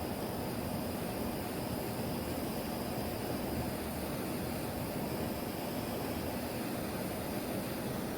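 Handheld propane torch burning with a steady hiss as its flame chars the cut edges of scrap fence-board wood to give them an aged look.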